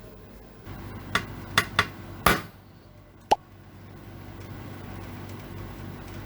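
A few sharp metallic knocks and clinks, as from metal parts or tools being handled and set down on a workbench, the loudest about two seconds in and one shortly after with a brief ring. A steady low hum sets in just under a second in beneath them.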